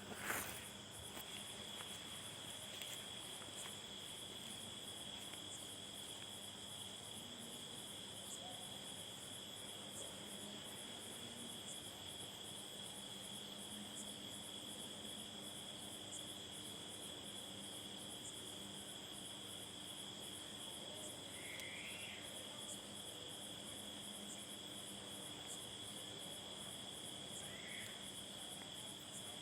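Insects chirring in a steady, high-pitched chorus, with a short knock just after the start.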